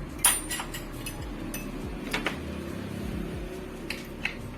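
A few sharp metallic clinks and knocks of tools and fan parts being handled and set down, the loudest about a quarter second in, over a steady low hum.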